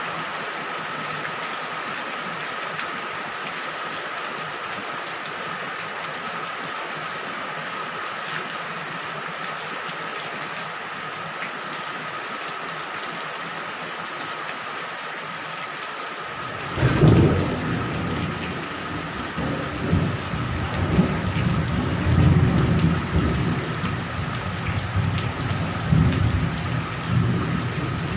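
Steady rain falling at night, with a thin steady tone under the hiss. About two-thirds of the way in, thunder breaks in suddenly and keeps rumbling in rolling surges, louder than the rain.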